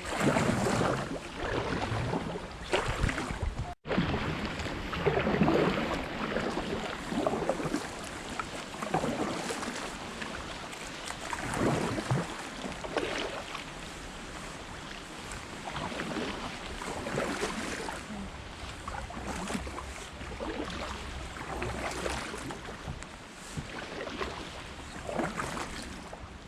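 Kayak paddle strokes splashing and swishing through the water at about one stroke a second, with some wind on the microphone.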